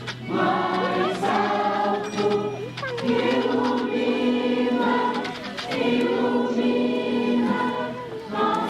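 A group of voices singing together, a slow song in long held notes with short breaks between phrases.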